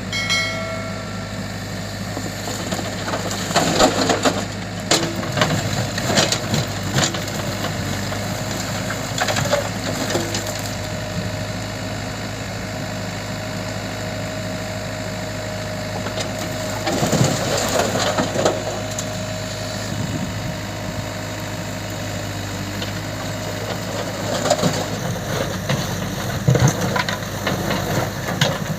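Diesel engine of heavy machinery running steadily, with bursts of clattering and crunching as loose material is loaded, around four seconds in, again in the middle, and near the end.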